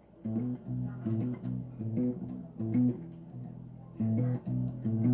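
Electric bass guitar played solo: short phrases of plucked notes in a riff, starting just after a brief pause, with light string and finger clicks.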